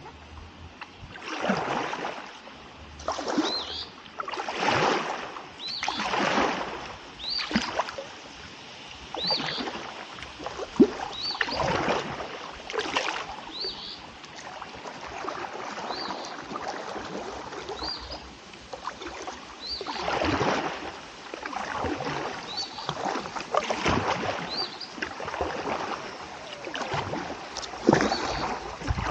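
Kayak paddle strokes in the water, a splash and swish about every second and a half as the blades dip on alternate sides. A short high chirp recurs every couple of seconds.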